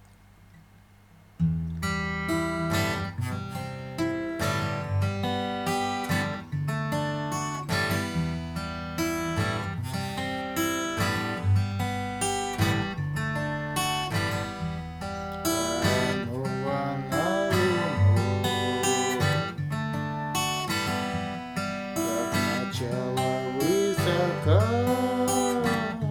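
Acoustic guitar playing the song's introduction in chords, starting about a second and a half in, with a few notes sliding in pitch.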